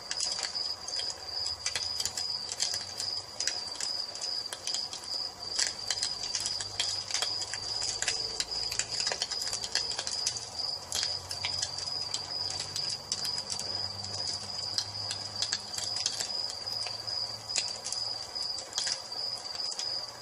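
Crickets trilling in one steady high note over a wood fire crackling with frequent sharp pops and a low rumble.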